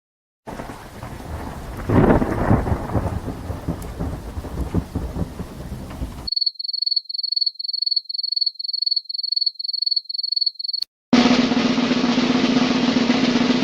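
A run of stock sound effects: a thunderclap with rain, then a rapid series of short, high-pitched electronic beeps, about three a second, then a click and a loud noisy sound with a steady low hum.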